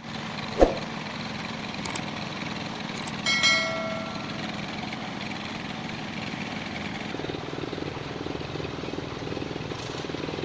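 Construction machinery engine running steadily during a concrete pour. There is a sharp knock about half a second in and a short ringing metallic sound about three seconds in.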